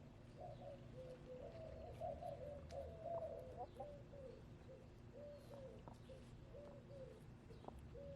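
Backyard hens making a string of soft, low clucks, the contented murmuring of chickens at ease, busiest about two to four seconds in and spacing out after.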